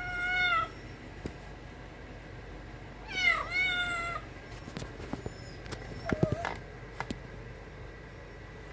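A cat meowing: a short meow at the start, a longer two-part meow about three seconds in, and a faint brief one around six seconds, with a few light clicks in between.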